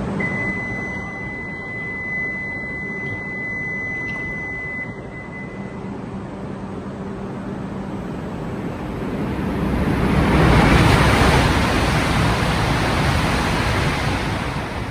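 E5 series Shinkansen train noise: a broad rushing sound that swells from about eight seconds in and stays loud. Over the first five seconds a steady high-pitched tone sounds.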